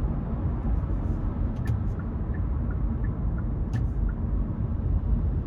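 A small car's road and engine noise heard inside the cabin while driving: a steady low rumble, with faint light ticks about three a second in the middle.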